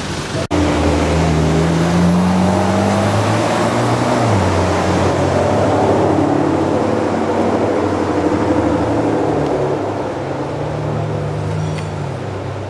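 Ferrari supercar engines running at low revs in slow traffic: a deep, steady engine note that rises in pitch about two seconds in and settles back, then rises and falls once more near the end. A brief dropout about half a second in comes just before the engine note starts.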